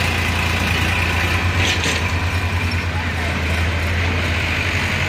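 Tractor diesel engine running steadily at idle with a pulsing low hum. A short burst of noise comes about two seconds in.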